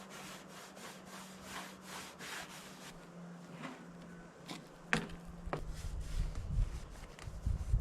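Rhythmic scrubbing strokes on the metal hydraulic tank, about two to three strokes a second, as it is wiped down with paint thinner. A sharp click comes about five seconds in, followed by heavier low bumping and handling noise.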